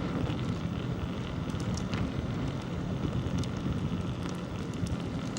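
Steady rush of wind on the microphone during a bicycle ride, with the tyres rolling on the road and faint scattered ticks.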